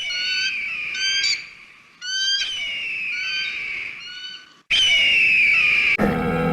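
A bird calling in three bursts of high, slightly falling calls with short gaps between them. Near the end a different sound with steady, lower tones abruptly takes over.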